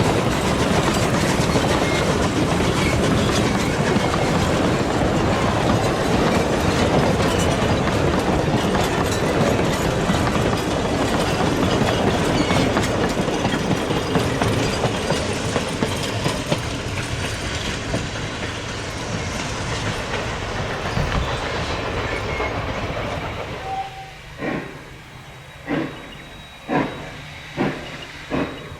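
Steam-hauled heritage train's carriages passing close by, a loud, continuous rumble and clickety-clack of wheels on rail. About 23 seconds in it fades, leaving a run of sharp single clacks roughly once a second.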